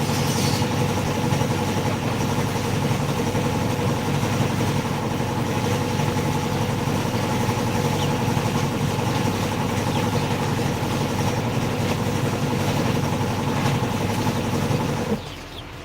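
A motor or engine running steadily with a constant hum over a low rumble, cutting off suddenly near the end.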